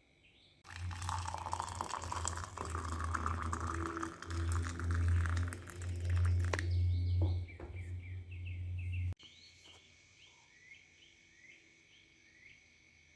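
A loud rushing noise over a steady low hum runs for about eight seconds and then cuts off abruptly. After it, small pet birds chirp faintly in short rising chirps.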